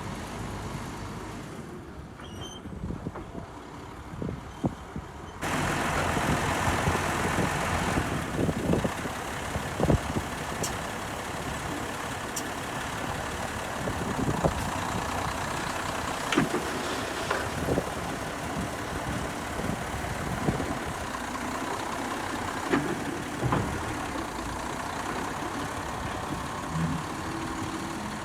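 Heavy diesel earthmoving machinery running steadily, an excavator working with dump trucks. The sound gets louder about five seconds in, and sharp knocks and clanks come every few seconds.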